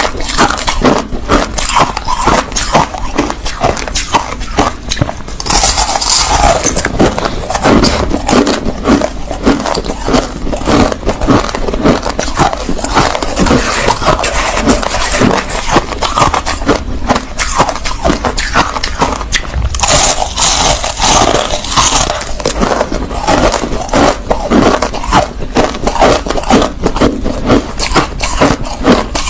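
Close-miked chewing of crushed ice: a dense, continuous run of crunches and cracks, with two short stretches of brighter hissing noise, a few seconds in and about two-thirds of the way through.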